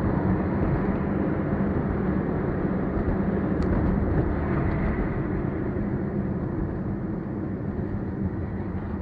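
Steady engine and road noise of a car being driven, as a dashcam picks it up, with a low hum running throughout.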